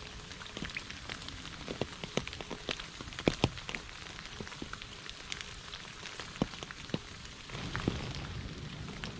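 Heavy rain falling: a steady hiss with many sharp, separate drops striking close by. About three-quarters of the way through, the rain grows fuller and deeper.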